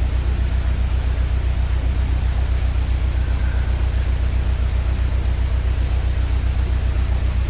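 Narrowboat's diesel engine idling, a steady low throb with a fast, even pulse.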